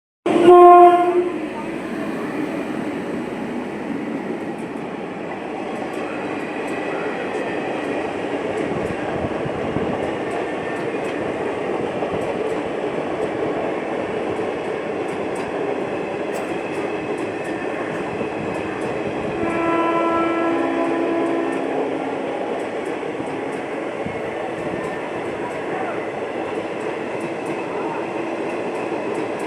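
Indian Railways train of ICF coaches running through a station at speed: a locomotive horn blast at the start, then the steady rumble and clatter of the coaches' wheels on the track. A second horn blast of two notes, falling in pitch, comes about twenty seconds in.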